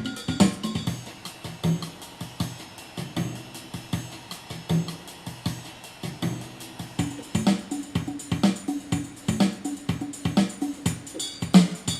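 Yamaha PSR-350 keyboard playing its built-in samba style: an electronic drum kit and percussion rhythm pattern that gets busier from about seven seconds in.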